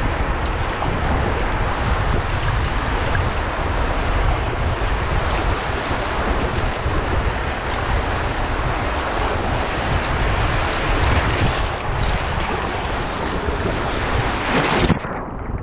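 Wind buffeting a GoPro's microphone over the rush of breaking surf around a surf kayak. About a second before the end the sound turns suddenly muffled, the high end cutting out.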